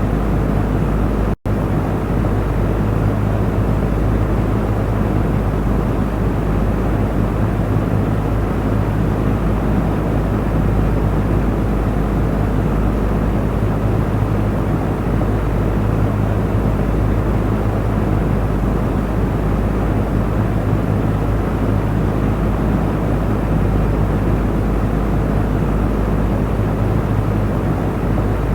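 Electric fan running steadily: a continuous whoosh of moving air over a low motor hum, broken once by a split-second dropout about a second and a half in.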